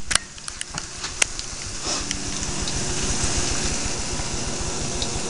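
Onions and jalapeño peppers sizzling in hot canola oil in a pot, a steady hiss that settles and evens out about two seconds in. A few light clicks in the first second or so come from a spice jar being shaken over the fish.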